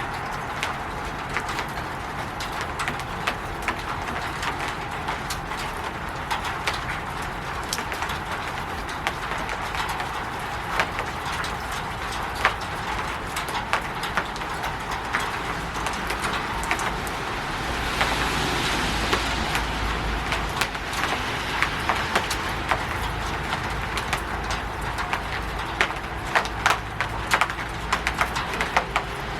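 Rain falling on a roof: a steady hiss of rainfall with many sharp individual drop taps. About eighteen seconds in, a louder, fuller hiss with a low rumble swells up for a few seconds, then eases back.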